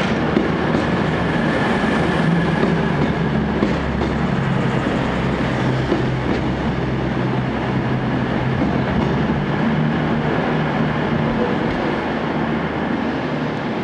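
Train running on the line: a steady rumble of wheels and running gear with a low hum underneath.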